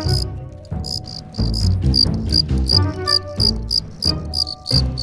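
Male cricket's rivalry call: rapid, harsh chirps, several a second, made by the scraper on one wing grating across the toothed file of the other. Background music plays underneath.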